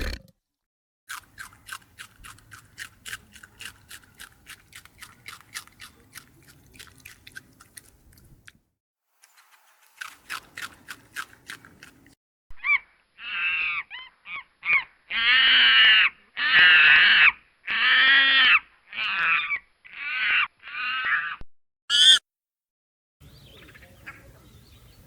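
A series of farm-animal calls: a long run of rapid clicking pulses, then about ten loud, drawn-out pitched calls in quick succession in the second half.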